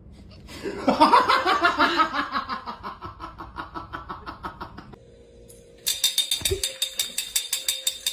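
A person laughing: a long run of quick rhythmic laughs that trails off, then a second burst of fast rhythmic laughter near the end.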